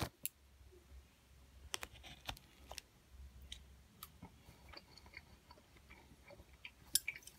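A person chewing a mouthful of steamed shrimp shaomai dumpling: faint, scattered wet mouth clicks, with a sharper click at the start and another near the end.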